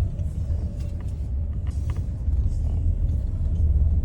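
Low, steady road rumble of a car driving, heard from inside the cabin, with a few faint clicks.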